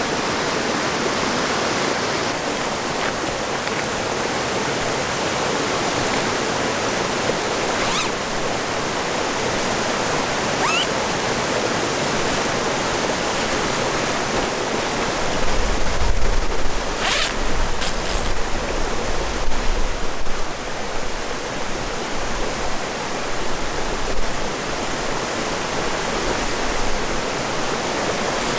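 Steady rush of river water. From about halfway through, gusts of wind buffet the microphone with a deep, uneven rumble for several seconds. A few faint clicks are heard along the way.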